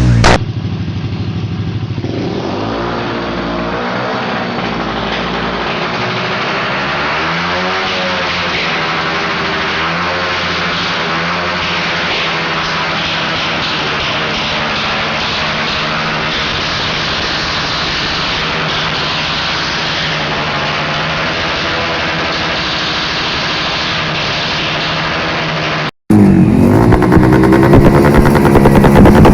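Small-displacement motorcycle engine (50 to 150 cc class) revved over and over, its pitch rising and falling as it is pushed toward the rev limiter. About 26 seconds in the sound cuts off briefly, and a louder motorcycle engine takes over, also revving.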